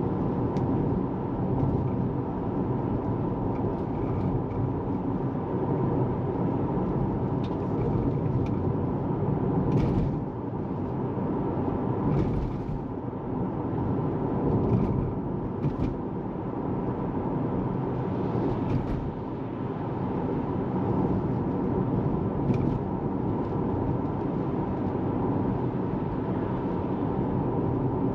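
Tesla Model 3 driving on the road: steady road and tyre noise, with a few faint clicks.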